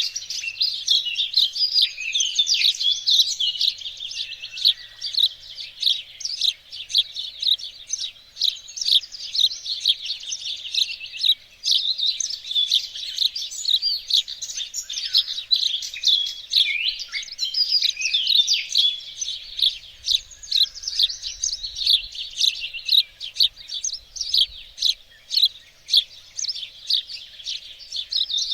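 Small songbirds singing in chorus: a dense, continuous stream of quick, high chirps and short trills that overlap without a pause.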